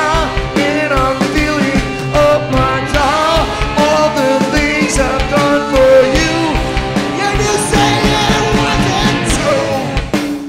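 Live rock band playing a song: drums keep a steady beat under guitars, with a singer's voice gliding over the top.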